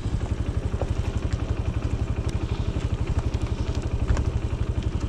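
A farm bike's small engine running at low, steady revs, with a rapid, even putter.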